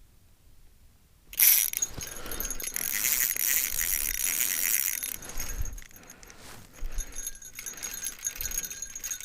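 A jangling, rattling clatter that starts suddenly about a second in, loudest for about four seconds, then goes on more faintly.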